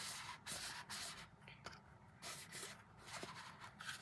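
Repeated scratchy rubbing strokes close to the microphone, about two a second, an ASMR trigger sound.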